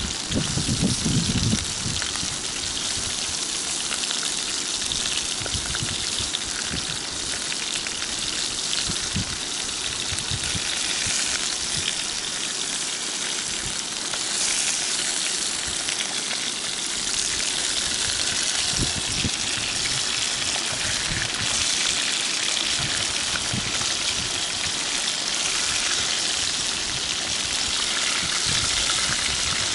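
Rotan (Chinese sleeper) fish in flour frying in hot oil in a pan, a steady sizzle.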